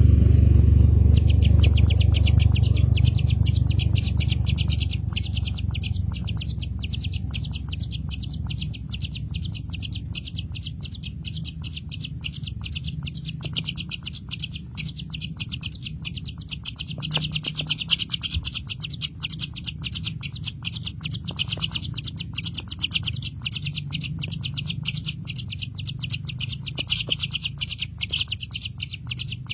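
Birds chirping rapidly and without pause, high-pitched, starting about a second in, over a low rumble that fades away in the first few seconds.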